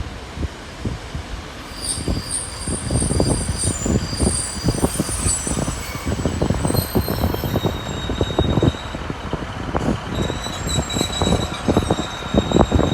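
Train wheels squealing in thin high tones from about two seconds in, over a continuous run of knocks and clatter as the wheels roll over the track.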